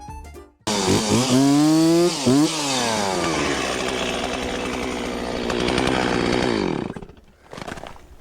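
Stihl 036 Pro two-stroke chainsaw starting up suddenly at high revs about a second in. Its pitch dips twice, then sinks slowly as it works under load in wood, and it cuts off abruptly near the end.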